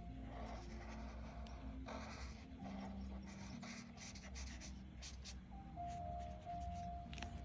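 Coloring strokes scratching on paper, several strokes in a row with small taps between them.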